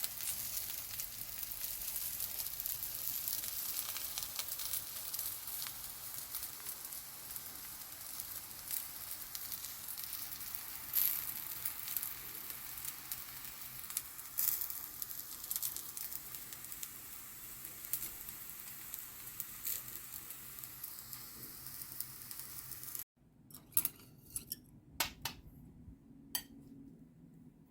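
Korean vegetable pancake (buchimgae) frying in oil in a pan: a steady sizzle with a few sharp clicks scattered through it. About 23 seconds in the sizzle cuts off abruptly, leaving a much quieter stretch with a handful of light clicks.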